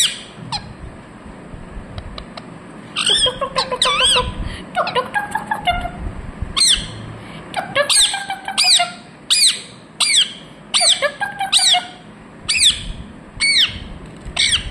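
Pet parrot squawking loudly: a run of short, shrill calls, each a quick up-and-down sweep in pitch. They start about three seconds in and then come steadily, a little more than one a second.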